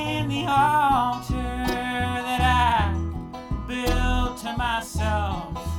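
Live bluegrass band playing a slow song: plucked guitar and a stepping bass line under a melody line that slides in pitch, between sung lines.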